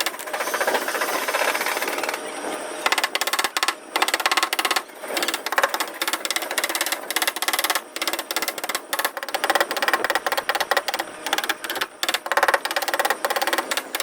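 Rapid, irregular light tapping, several taps a second, of the kind made when a dent in a car's sheet-metal panel is tapped down during paintless dent repair.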